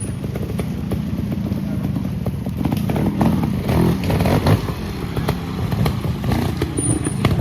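Trials motorcycle engine running at low revs with short throttle blips, louder for a stretch in the middle, with scattered clattering as the bike works through an observed-trials section.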